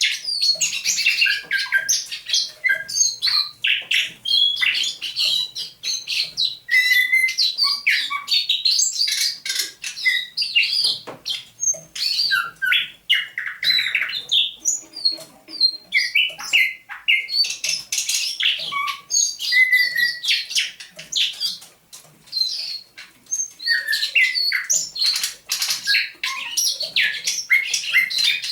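Thrush nightingale singing a long, rapid run of varied phrases: sharp clicks and rattles mixed with short whistled notes. It sings almost without pause, apart from a brief break about 22 seconds in.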